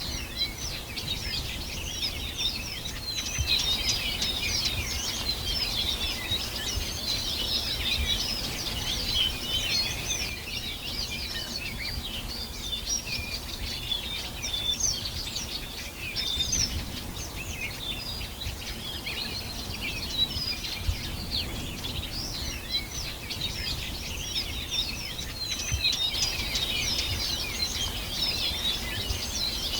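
Many small birds chirping and singing at once, a dense chorus of short, high, quick calls that never lets up, over a low background rumble.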